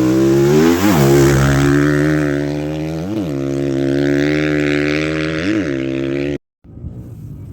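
Rally-raid motorcycle engine running hard at a steady pitch, with three brief sharp rev flares about a second, three seconds and five and a half seconds in. The sound cuts off abruptly near the end and a quieter engine sound follows.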